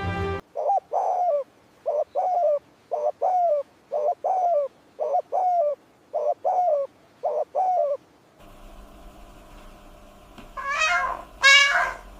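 A bird calling in short two-note phrases, repeated about once a second. After a cut, a cat meows loudly twice near the end.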